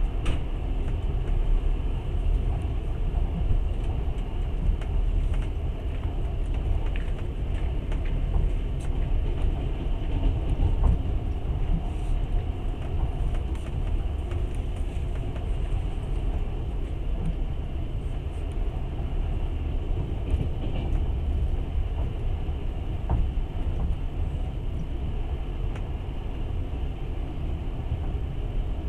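Passenger train running, heard from inside the carriage: a steady low rumble of the wheels on the rails, with a few faint clicks now and then.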